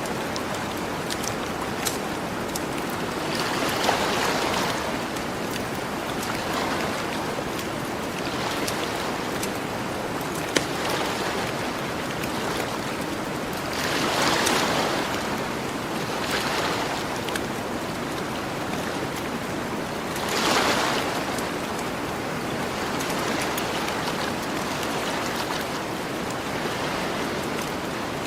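Gentle ocean waves washing onto the shore over a steady hiss of surf, swelling three times, with the occasional sharp pop of a campfire crackling.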